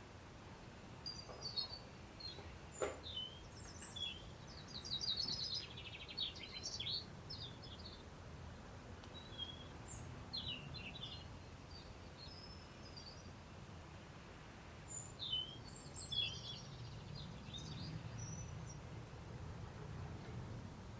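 Small garden birds chirping and twittering in several short bursts, over a steady low background rumble.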